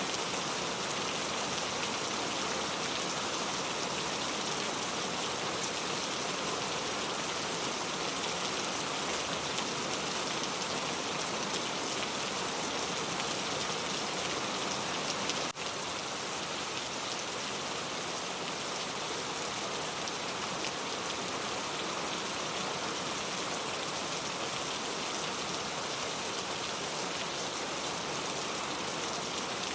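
Steady rain falling on a surface, an even hiss of many drops with no thunder. There is one brief dip about halfway through.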